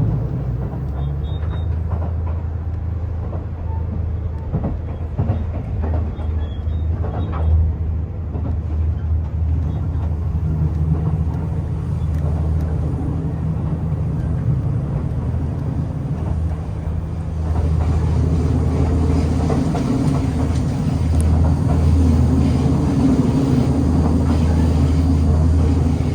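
Cabin noise inside a JR Central HC85 series hybrid train: a steady low drone from the engine and running gear. A few light clicks come about a quarter of the way in, and the noise grows louder and fuller about two-thirds of the way through.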